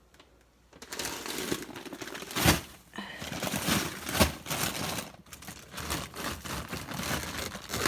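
Frozen food packages in plastic being shuffled and packed into a freezer: continuous crinkling and scraping with many small clicks, and two loud knocks about two and a half and four seconds in as hard frozen items hit each other.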